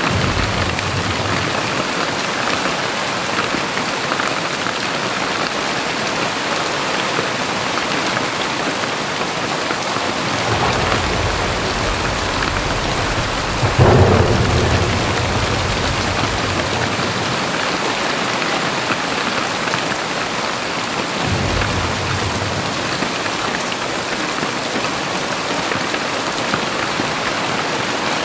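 Heavy rain falling steadily, with a roll of thunder that builds about ten seconds in and breaks into a loud clap a little before halfway. A shorter low rumble follows about two-thirds of the way through.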